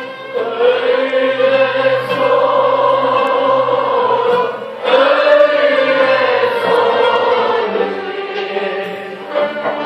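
Turkish classical song in makam Hicaz: a voice sings two long held notes, the second starting about five seconds in, over instrumental accompaniment, and the instruments carry on alone near the end.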